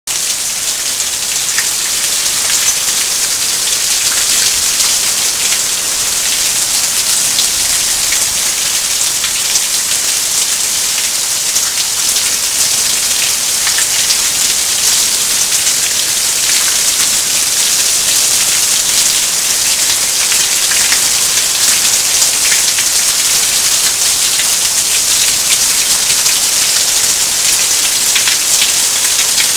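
Heavy rain mixed with hail coming down steadily: a dense, even hiss flecked with many sharp little ticks.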